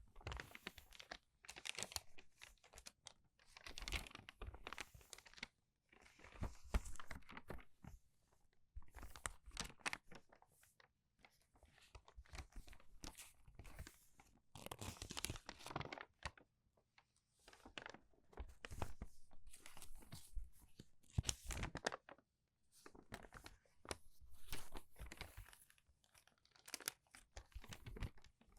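Crinkled paper pages being turned quickly, one crinkly rustle after another every second or two, with short pauses between turns.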